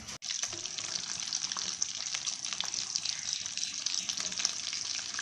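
Breaded vegetable cutlets sizzling as they fry in hot oil, a steady hiss with many small crackles.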